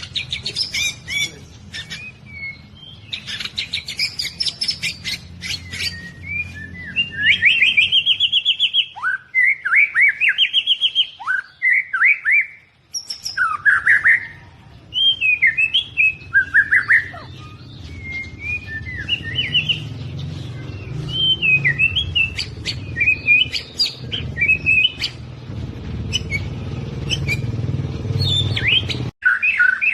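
Albino white-rumped shama singing a long, varied song of rapid clicking trills, loud downward-sweeping whistles and warbled phrases, over a steady low hum.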